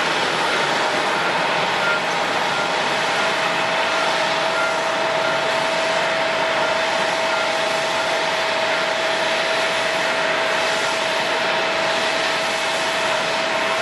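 Steady airport apron noise: jet aircraft engines running with a continuous rush and a steady whine that grows stronger partway through, and a faint short beep repeating about twice a second.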